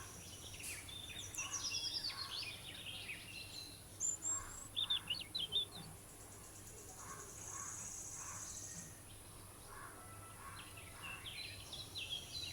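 Several birds chirping and calling over a faint steady hiss, with quick runs of short falling notes and a buzzy high call near the middle.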